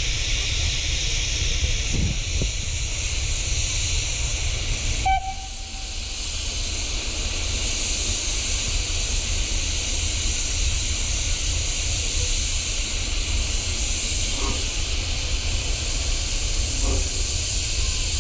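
Steam locomotive letting off steam: a loud, steady hiss with a low rumble underneath, dipping briefly about five seconds in.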